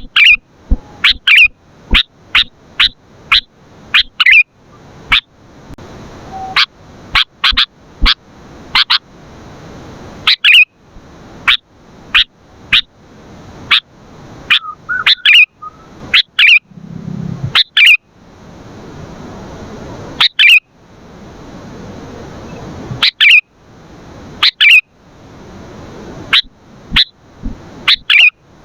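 Sooty-headed bulbul (kutilang) calling: many short, sharp, loud chirps in quick irregular runs, broken by a few pauses of a second or two.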